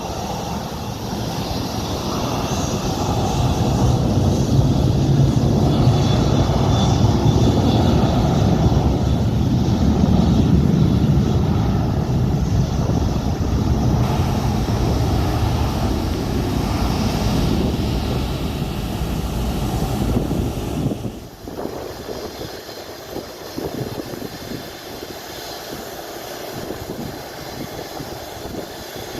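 Airliner's engines passing close, a loud low rumble that builds over the first few seconds and holds, with a faint high whine, then drops abruptly about 21 seconds in to a quieter engine sound.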